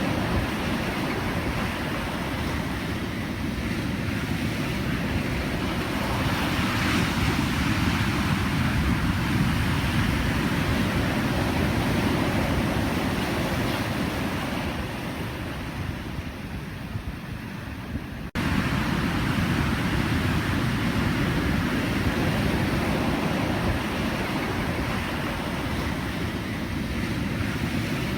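Ocean surf: waves breaking and washing ashore in a continuous rushing wash. It eases off about fifteen seconds in, then cuts back suddenly to full strength a few seconds later.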